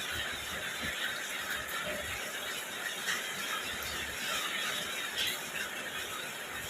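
Steady rain falling, an even hiss throughout, with a few faint soft knocks.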